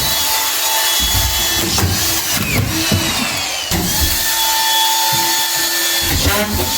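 A handheld power tool running in short spells, its pitch rising and falling as it speeds up and slows down.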